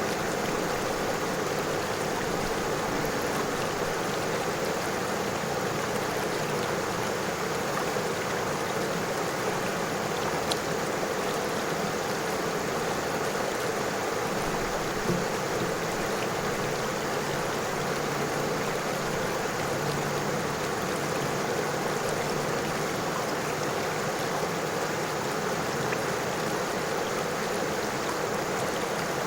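River water flowing steadily over stones, a constant rushing and babbling with no change in level.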